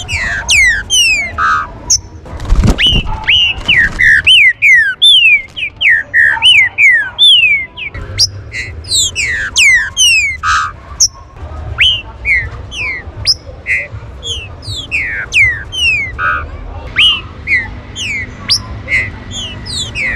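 Green-winged saltators (trinca-ferro) whistling in quick, overlapping series of short downslurred notes, several birds at once. A low thud comes about two and a half seconds in.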